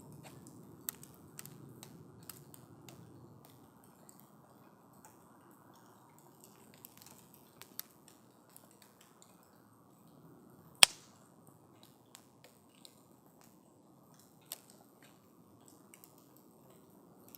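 Wood campfire crackling: a soft low rush of burning wood with scattered sharp snaps and pops, one loud pop about two-thirds of the way through.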